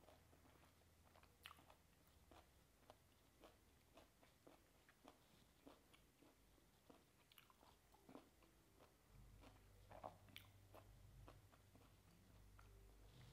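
Close-up chewing with the mouth closed: faint, short wet clicks of food being chewed, about two a second. A low steady hum comes in about two-thirds of the way through.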